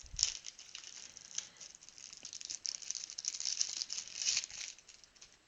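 Thin plastic crinkling and rustling as trading-card penny sleeves are handled, with a sharp knock just after the start. The crinkling thickens in the second half and stops shortly before the end.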